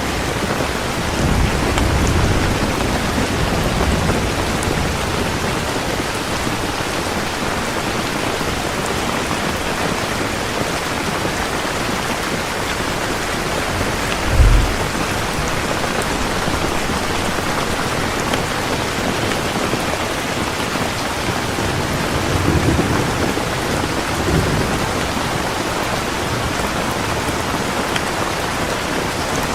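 Heavy rain falling steadily, with low rumbles of thunder near the start and again late on. One short low boom comes about halfway through.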